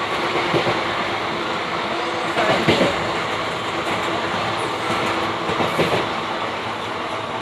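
Passenger train running on the rails: a steady rumble of the coaches, with the wheels clattering louder about two and a half seconds in and again near six seconds.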